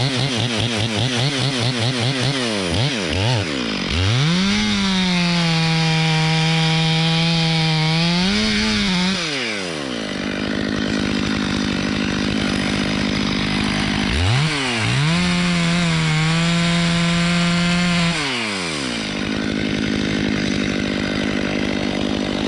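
Two-stroke chainsaw with an uneven, pulsing pitch for the first few seconds. It then revs up and holds at full throttle twice for about four seconds each, cutting into wood, and drops back to a steady idle between the runs and near the end.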